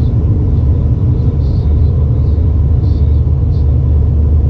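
Steady, loud low rumble of an Airbus A320's cabin noise, the airliner's engines and airflow heard from inside the passenger cabin.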